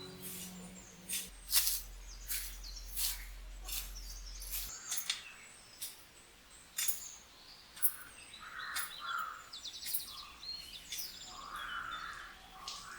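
Birds chirping: scattered short, sharp calls, with a quick trill of repeated notes about eight seconds in.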